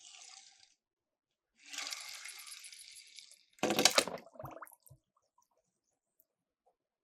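Miniature toy car rolling down a slope with a steady hiss for about two seconds, then splashing into water, the loudest sound, followed by a few smaller splashes.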